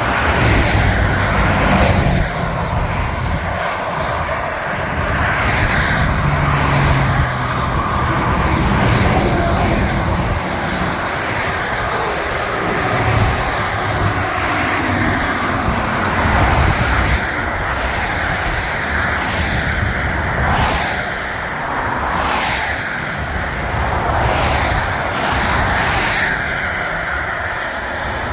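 Wind and road noise from riding a mountain bike along a road: a loud, steady rush with a heavy low rumble.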